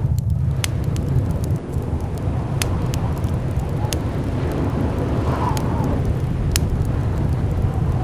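Blizzard wind rumbling low and steady, with a whistling gust that rises and falls about five and a half seconds in. Scattered sharp crackles run through it.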